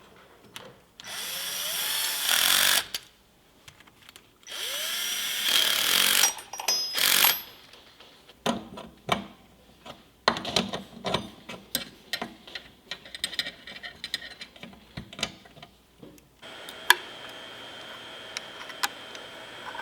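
A power driver runs twice, about two seconds each time, backing out fasteners, then gives a short third burst. A string of metal clinks and knocks from hand tools follows, and near the end a steady hum with a high whine sets in.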